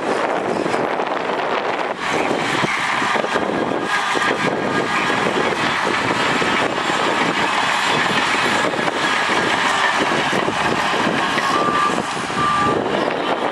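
Heavy diesel earthmoving machinery running steadily under load, with a couple of short high tones near the end.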